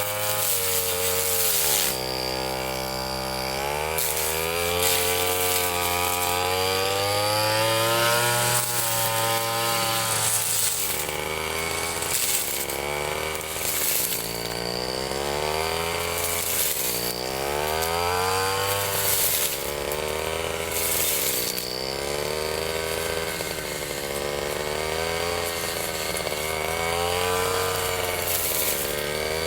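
Ryu 30.5 cc two-stroke brush cutter engine running under load while cutting grass. Its pitch rises and falls every few seconds as the throttle is eased and opened again, with short bursts of hiss along the way.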